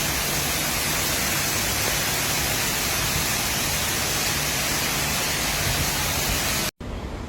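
Heavy rain falling in a steady, even hiss, cutting off abruptly near the end to quieter, gusty noise.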